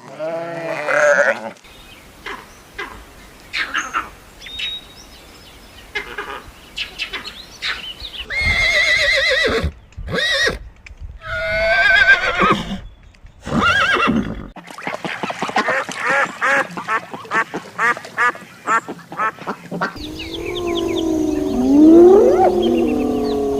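Recorded animal calls of several kinds, edited one after another: scattered short chirps and clicks, then pitched repeated calls, then a fast run of calls, and near the end low gliding calls.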